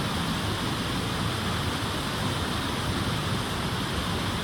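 Flash floodwater rushing over a road, a steady, unbroken noise of strong-flowing water.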